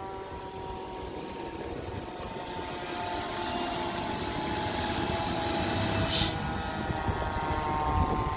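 Fire engine siren wailing, its pitch slowly falling and then climbing again, over a low rumble, with a short high chirp about six seconds in.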